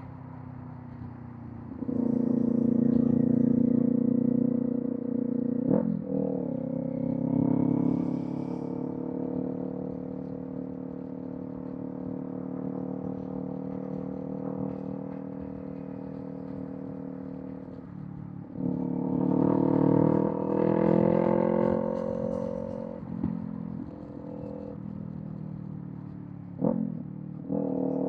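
Kawasaki Z400 parallel-twin motorcycle engine with a Villain M1 aftermarket exhaust, running at speed. The throttle opens about two seconds in, a quick gear change comes near six seconds, and it then cruises steadily. It opens up loudly again past the middle and eases off, with another quick shift and pull near the end.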